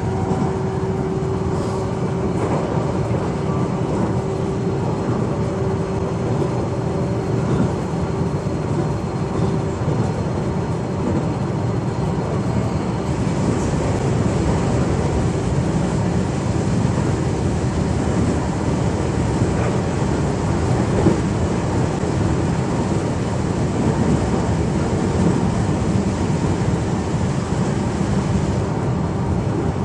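Running noise of a JR East E129 series electric train under way, heard from inside the car: a steady rumble of wheels and running gear on the rails. A faint tone fades out about ten seconds in.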